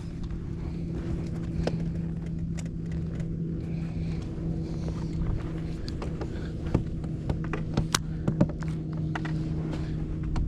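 Boat motor running with a steady low hum, with scattered light knocks and clicks of gear on the boat.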